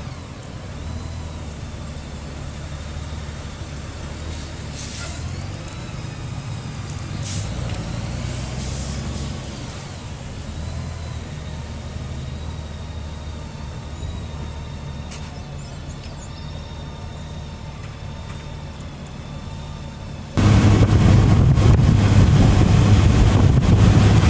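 Motorcycle engine running during a ride, its low note rising and falling with the throttle. About twenty seconds in, the sound suddenly gets much louder, with heavy wind rush on the microphone.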